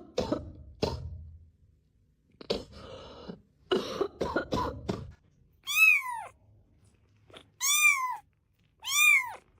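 A run of short, harsh coughs in the first half, then a cat meowing three times near the end, each meow rising and then falling in pitch.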